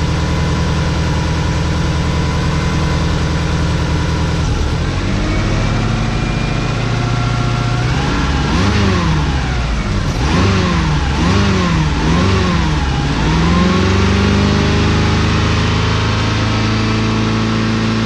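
Subaru EJ22 flat-four engine running at idle while it sucks Seafoam in through the crankcase breather hose. About halfway through its revs rise and fall several times in quick succession, the throttle cable worked by hand to keep the engine from stalling, before it settles to a steady, slightly raised idle.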